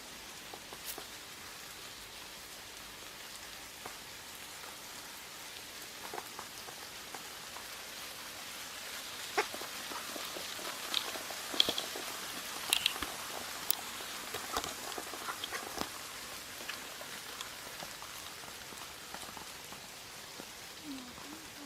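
Steady rain hiss with scattered close raindrops ticking, the ticks thickest around the middle.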